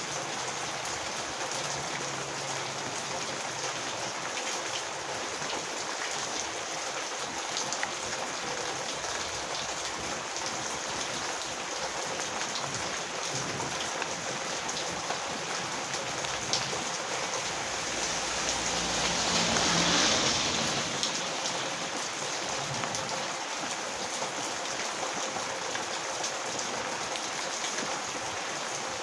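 Steady heavy rain falling on a road, with scattered drop taps. About two-thirds of the way through, a louder rushing swell rises to a peak and fades over a few seconds.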